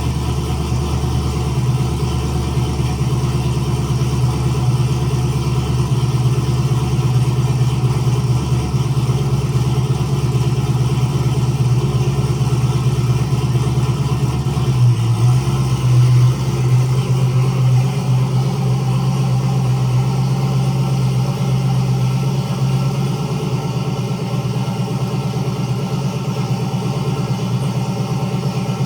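Turbocharged LS V8 of a third-generation Camaro idling steadily, with a brief rise in engine speed about halfway through.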